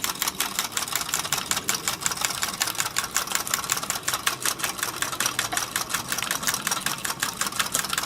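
Homemade soda-can Stirling engine running steadily, its bicycle-spoke crank and CD flywheel turning with a rapid, even clicking of several ticks a second.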